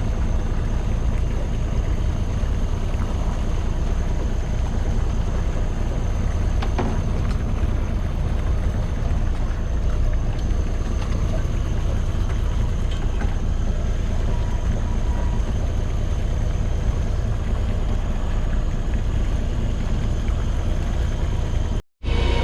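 Steady low rumble of a fishing boat under way, its engine running with hull and water noise. The sound cuts out abruptly for a moment near the end.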